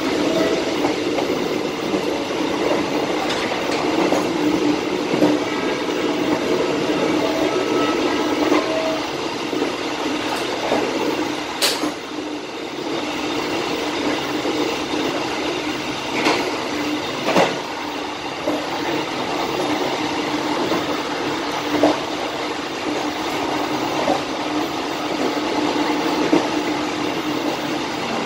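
Bengawan passenger train running along the track: a steady rumble of wheels on rail, broken by a few sharp knocks as the wheels pass rail joints.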